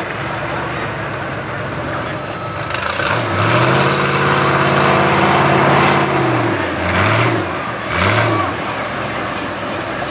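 Mud truck's engine revving hard: one long rev held for about three seconds, then two short blips of the throttle near the end.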